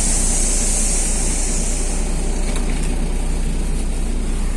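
Inside a moving MAZ-215 articulated city bus: steady engine and road noise with a constant low hum, and a high hiss that fades out over the first two seconds.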